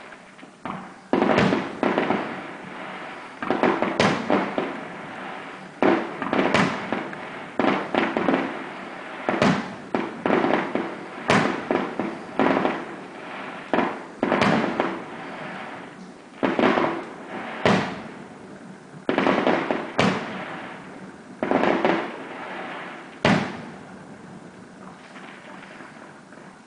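Aerial fireworks display: a rapid, irregular string of loud booms, often one to two seconds apart, each trailing off in an echo. The bursts pause briefly near the end, then start up again.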